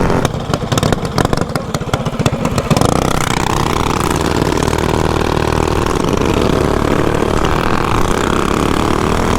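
Mini bike's small single-cylinder engine chugging at low revs, then revving up about three seconds in and running steadily under way.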